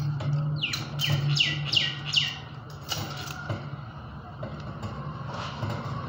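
A bird calling a quick run of about five chirps, each falling in pitch, starting under a second in, over a low steady hum.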